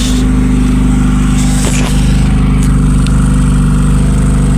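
Volkswagen engine with MP9 fuel injection idling steadily just after a cold start.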